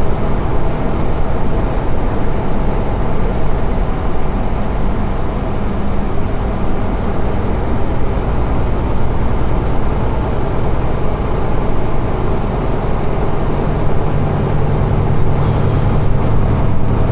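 Steady rumble of a semi-truck on the move, heard from inside the cab: engine drone mixed with road noise. The low engine note grows stronger about fourteen seconds in.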